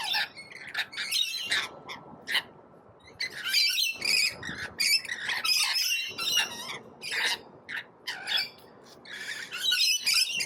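A flock of parrots screeching and chattering, with many shrill calls packed closely together and brief lulls about two seconds in and again near eight seconds.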